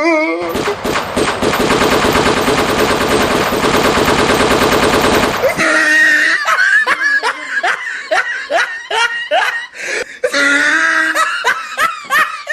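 A machine-gun sound effect firing a rapid burst for about five seconds, then cutting off, followed by a person laughing in short repeated bursts.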